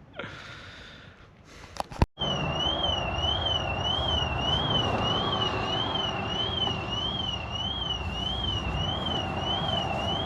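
Mercedes Sprinter van alarm sounding, a warbling siren that rises and falls about twice a second, starting after a sharp click about two seconds in, over heavy wind noise and rumble. The alarm is set off by passing lorries shaking the vans, which keep auto-locking.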